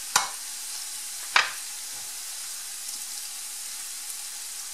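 Sofrito of onion, garlic and peppers frying in lard and oil in a frying pan, sizzling steadily. Two sharp knocks about a second apart near the start.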